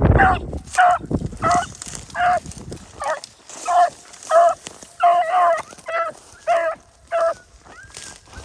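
A dog barking steadily over and over, about one and a half barks a second, with wind rumbling on the microphone for the first second or so.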